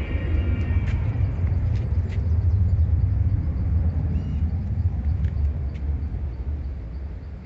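A vehicle's low engine rumble, building over the first few seconds and fading away toward the end.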